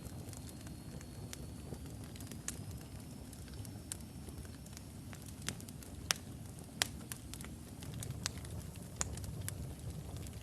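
Wood logs burning in a fireplace: a steady low rumble of flame with irregular sharp crackles and pops, the loudest pair about six and seven seconds in. A faint high whistle rises slightly and stops about halfway through.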